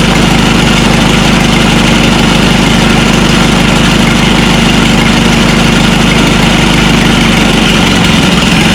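Minneapolis-Moline tractor engine idling steadily with its choke half open, newly revived after sitting unused for about five years.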